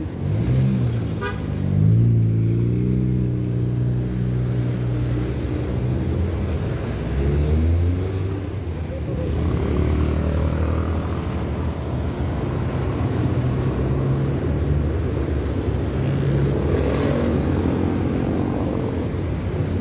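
Motor vehicle engines in road traffic, running close by, their pitch rising and falling as they accelerate and ease off, over a steady low rumble.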